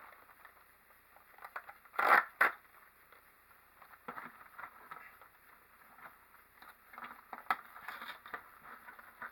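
Cardboard snack-cake box being torn open and its packaging handled: scraping, crackling rustles and small clicks, with two loud tearing scrapes about two seconds in.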